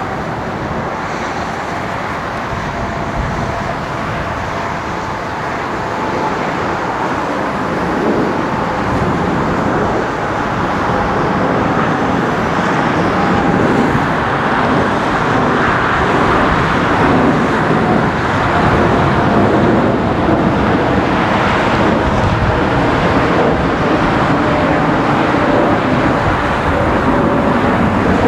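Jet engines of a Boeing 787-9 airliner, a steady rushing noise with faint engine tones that slowly grows louder.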